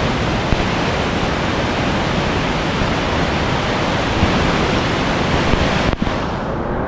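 Steady loud rush of whitewater pouring through a Class IV rapid. About six seconds in, it cuts abruptly to a duller rush with the high hiss gone.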